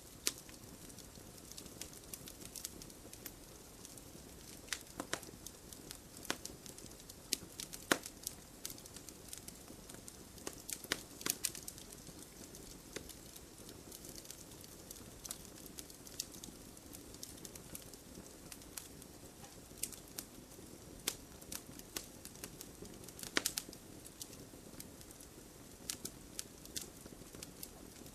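Campfire burning, its wood crackling and popping irregularly over a soft steady hiss, with a few louder snaps.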